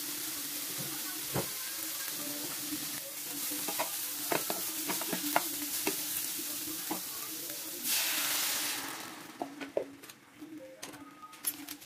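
Eggplant and salted anchovies sizzling in oil in a nonstick frying pan, with a wooden spatula stirring and clicking against the pan. About eight seconds in there is a louder burst of hissing as water goes into the hot pan, after which the sizzling dies down and only occasional spatula taps remain.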